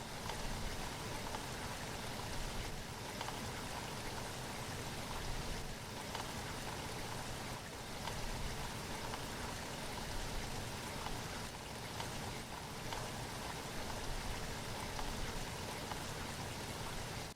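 Steady rain falling, an even hiss with no lulls.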